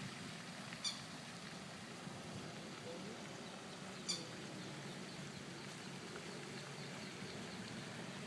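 Lakeside outdoor ambience: a steady low hush, with two short, sharp high bird chirps about three seconds apart and faint high twittering after the second.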